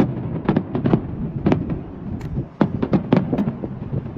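Fireworks exploding in quick, irregular succession: about a dozen sharp bangs over a continuous low rumble.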